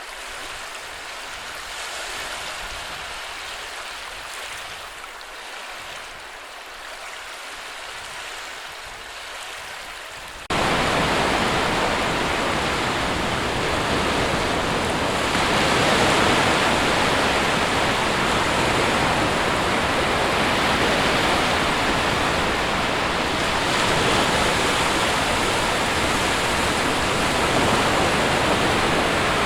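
Sea surf washing steadily. About a third of the way in it cuts suddenly to much louder, fuller surf with a deeper rumble, swelling and easing gently.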